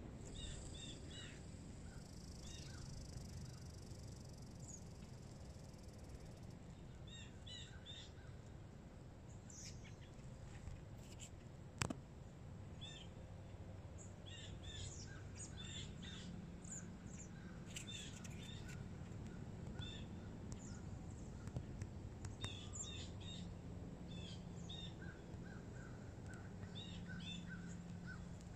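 Small birds chirping, short high calls repeated on and off throughout over a low steady rumble, with a single sharp click about twelve seconds in.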